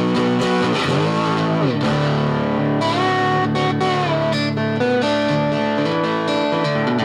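Lap steel guitar playing an instrumental passage over sustained low notes, with the notes sliding down and back up about a second in.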